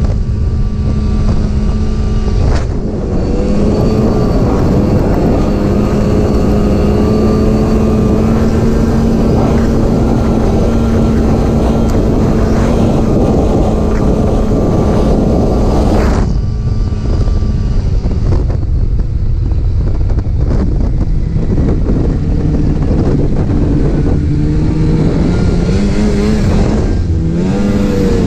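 Snowmobile engine running steadily at speed. About two-thirds of the way through, the engine note drops suddenly as the throttle eases, and near the end its pitch rises and falls as it revs.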